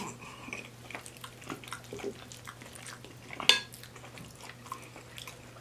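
Close-up mouth sounds of chewing a mouthful of spaghetti, a string of small soft clicks. About three and a half seconds in there is a single sharper clack as chopsticks are laid down on the plate.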